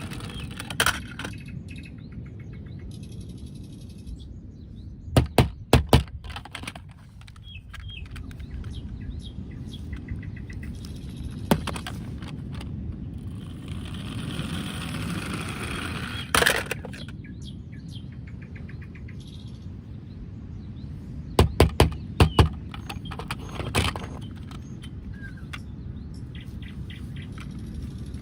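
Scattered sharp knocks and clicks, some in quick clusters of three or four, over a steady low rumble.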